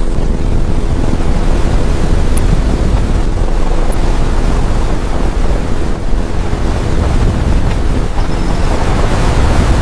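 Loud, continuous rushing of a river in flash flood, a torrent of muddy water and debris, with wind buffeting the microphone.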